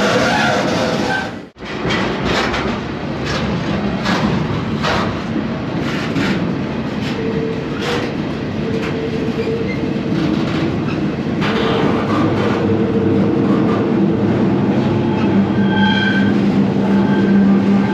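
Freight train heard from aboard a moving car: steady rolling rumble with wheels clicking over rail joints about once a second. The sound drops out briefly a second and a half in, and a high steady wheel squeal comes in near the end.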